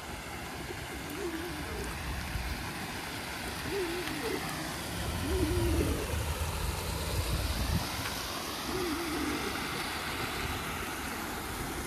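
Steady rush of water pouring over a small artificial waterfall. A low rumble swells briefly about halfway through.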